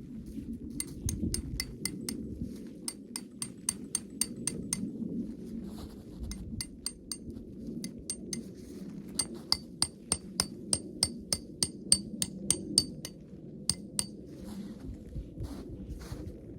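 Rapid, repeated light clinks of a hard object, each with a short bright ring, coming about three to four a second in two runs with a brief pause between. A steady low rumble runs underneath.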